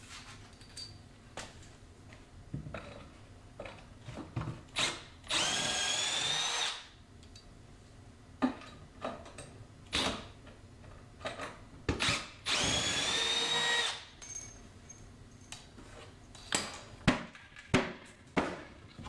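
Power drill running in two bursts of about a second and a half each, its whine rising as the motor spins up and then holding steady, with scattered clicks and knocks of handling between the bursts.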